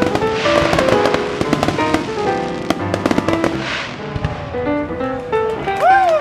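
Fireworks crackling and popping in rapid clusters, with music playing throughout.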